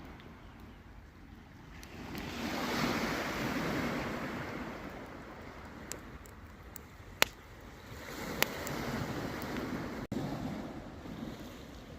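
Baltic Sea waves washing onto the shore, swelling and falling back twice, with a low wind rumble. Two sharp pops stand out in the middle.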